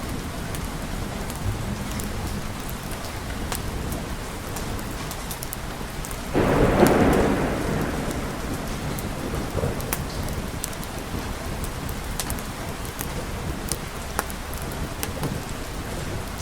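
Steady rain with scattered sharp ticks, and a sudden clap of thunder about six seconds in that rumbles away over a couple of seconds.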